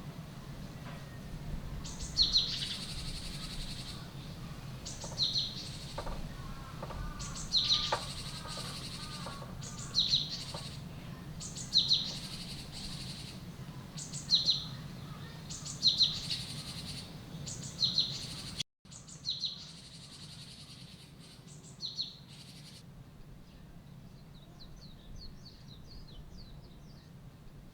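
Small bird calls repeating about every two seconds, each a sharp high note followed by a short hissing rush. After an abrupt cut about two-thirds through, fainter rapid high chirps follow.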